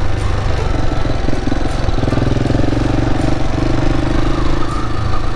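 KTM 690 Enduro's single-cylinder engine running as the motorcycle is ridden, its note shifting about two seconds in.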